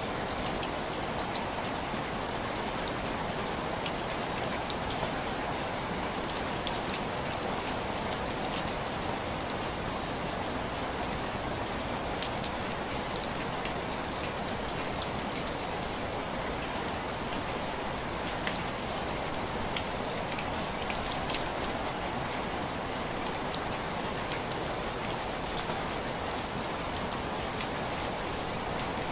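Steady rain with individual drops tapping sharply on window glass, scattered irregular ticks over a constant patter.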